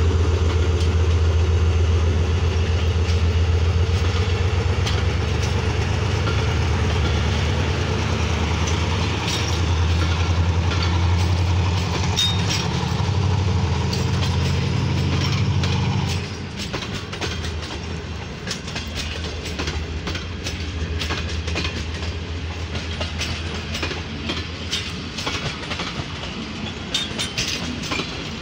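A Pakistan Railways ZCU-30 diesel-electric locomotive pulls a passenger train away under power. Its engine drone is strong for the first half and drops off suddenly just past the middle. After that, passenger coaches roll past with a run of wheel clicks and clickety-clack over the rail joints.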